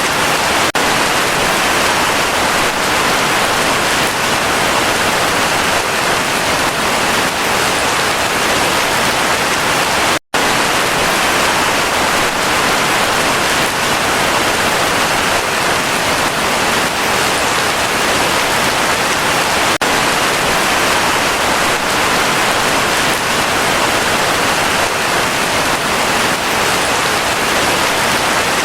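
Heavy rain falling in a steady, dense hiss, with a split-second dropout to silence about ten seconds in.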